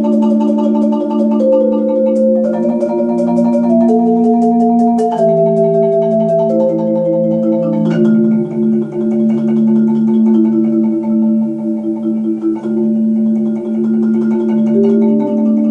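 Solo marimba played with four mallets, rolling sustained chords that change every second or two.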